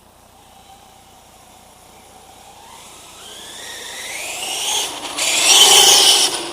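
Radio-controlled Redcat MT monster truck's Castle Creations brushless electric motor whining under full-throttle acceleration, the whine rising in pitch and growing louder from about halfway. It peaks near the end as a loud rush of motor and drivetrain noise, then drops away suddenly.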